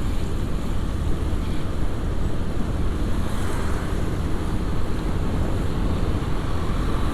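Steady wind rush on an action camera's microphone during a motorcycle ride, with the motorcycle's engine and tyre noise underneath.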